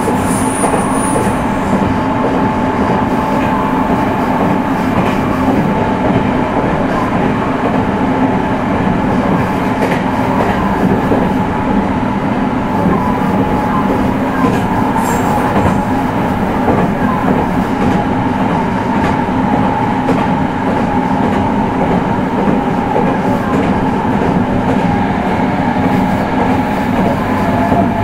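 Meitetsu 3100-series electric multiple unit running at steady speed: continuous wheel and track rumble with a steady hum, and scattered knocks as the wheels pass rail joints.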